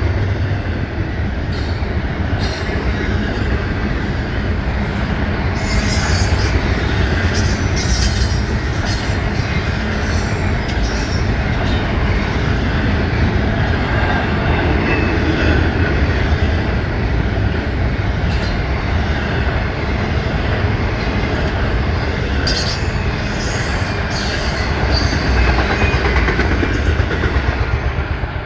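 Norfolk Southern freight train cars rolling past with a steady rumble of wheels on rail. Clusters of sharp clicks come from wheels crossing rail joints, and the sound eases off right at the end.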